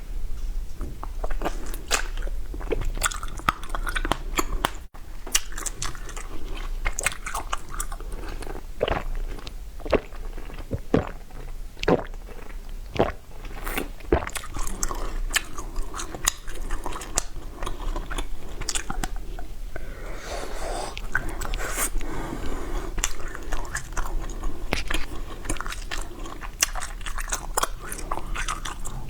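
Ice being bitten and chewed, with irregular sharp crunches and cracks as the cubes break between the teeth.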